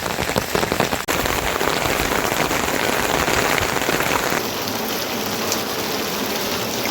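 Heavy rain falling, a dense steady patter of drops on a surface. The sound shifts abruptly about a second in and again a little past the middle.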